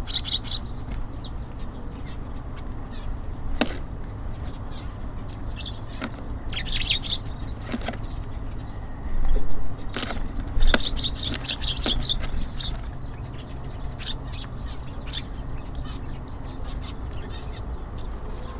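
Small birds at a bird feeder chirping in quick bursts, with scattered single chirps and a few sharp taps. A steady low rumble runs underneath.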